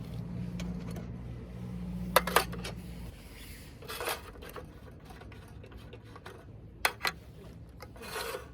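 Handling noises: rubbing and scraping with a few sharp knocks, over a low hum that stops about three seconds in.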